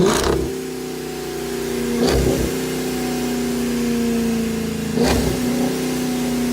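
Supercharged Dodge Charger R/T V8 idling through a cat-back exhaust with J-pipes, revved in three short blips: one at the start, one about two seconds in and one about five seconds in, settling back to a steady idle between them.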